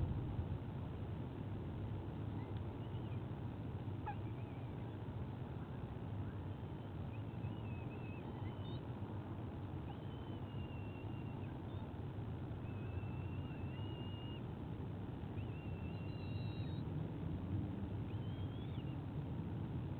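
Thin, high whistled bird calls, several short ones in the second half, over a steady low rumble of outdoor background noise.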